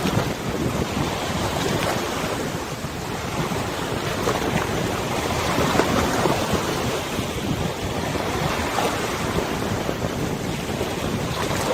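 Wind buffeting the microphone over the wash and lapping of waves on a wide river, a steady rough rush with irregular gusts.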